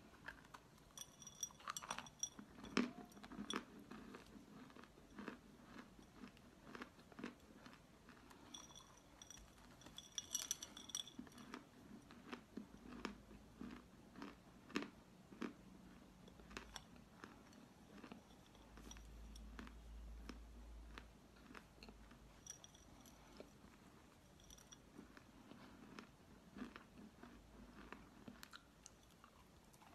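Biting and chewing of crumbly chalk filled with clay paste, heard close up as an irregular run of sharp crunches and crackles.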